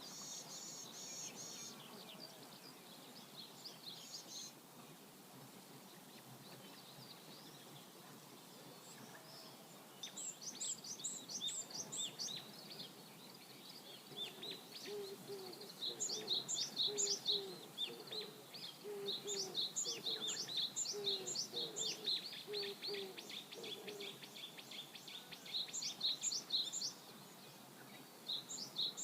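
Songbirds calling over a faint, steady river rush: runs of quick, high chirping notes, repeated in bursts from about a third of the way in, with a lower repeated call joining in the middle stretch.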